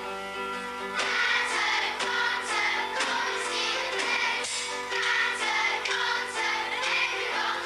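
Children singing together in chorus with instrumental accompaniment, a steady run of held notes.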